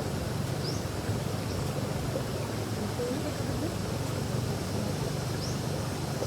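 Steady rush of a flowing creek, with a couple of faint short high chirps.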